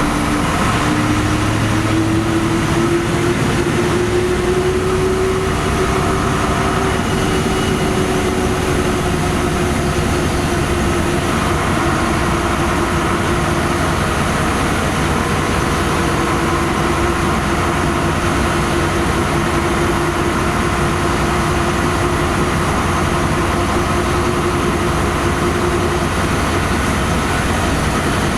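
Inside a LiAZ-5256 city bus on the move: steady running noise from the diesel engine and the road, with a whine that rises in pitch over the first few seconds and then holds steady.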